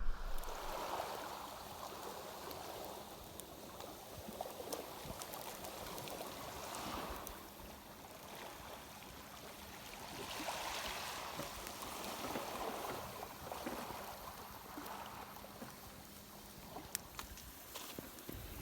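Water lapping and sloshing against a boat's hull, swelling and easing every few seconds, with a faint steady hum underneath.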